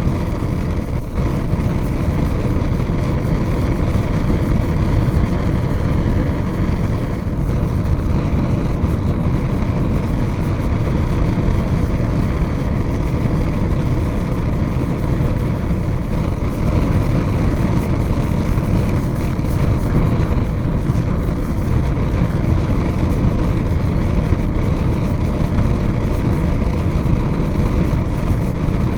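Large fire burning with a steady low rumble and no distinct crackles standing out.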